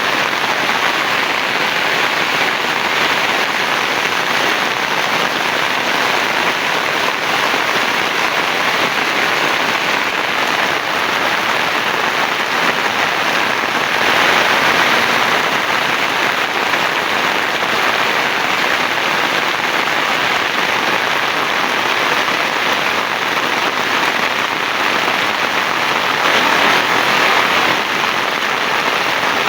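Heavy rain falling steadily on surfaces, an even hiss that swells a little twice, about halfway through and near the end.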